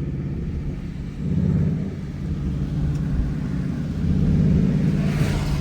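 Jeep Grand Cherokee SRT's V8 engine running while driving, its rumble swelling about a second in and again near four seconds as it pulls. A brief hiss rises near the end.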